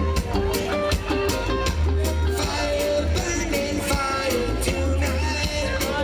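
Roots reggae band playing live, with a heavy bass line, drums keeping a steady beat and sustained instrument notes over it.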